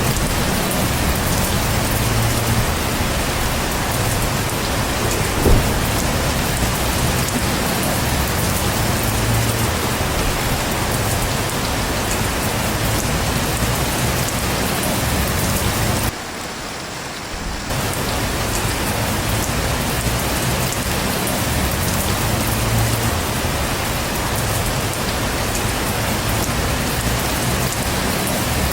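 Heavy rain falling steadily, with one sharp click about five seconds in and a brief drop in level a little past halfway.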